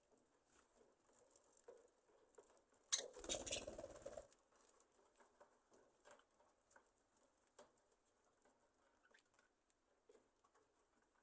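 Budgerigars in an aviary: faint scattered taps and scratches of birds shifting about, with a brief rustling flurry of wings about three seconds in that lasts about a second.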